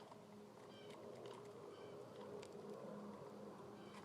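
Near silence, with a few faint short high chirps and soft clicks over a low background hum.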